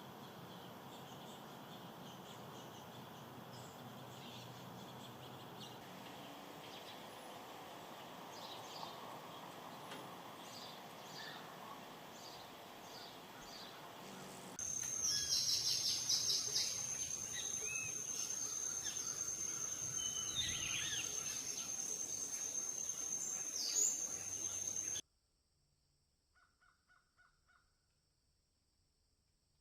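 Birds calling: scattered short high calls over outdoor background noise. About halfway the sound cuts to a louder scene with a steady high-pitched whine and busier, harsher calls. That ends abruptly into near silence with a few faint short tones.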